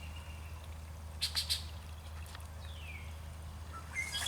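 Faint wild birds calling in a swampy woodland: a falling whistle near the middle and a higher, held call near the end. A few short crackles come about a second in, over a steady low hum.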